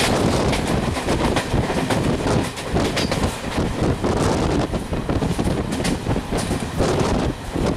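Passenger train running at speed, heard from on board: steady rumble and rattle of the wheels and coaches on the track, with frequent clicks and knocks from the wheels over rail joints.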